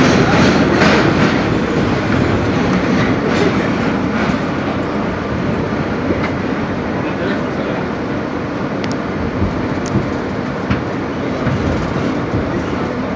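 Interior of a New York subway R160B car running through the tunnel: a steady loud rumble of wheels on rail, easing a little over the first few seconds, with a few sharp clicks from the wheels over rail joints near the end.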